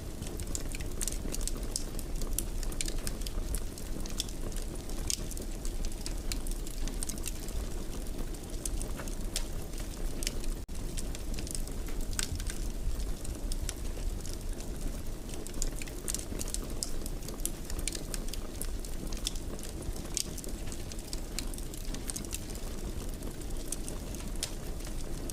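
Wood fire in a fireplace burning steadily: a low rush of flames with many small crackles and pops scattered throughout.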